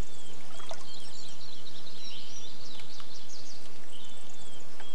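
Small birds chirping repeatedly in short quick notes over a steady background hiss.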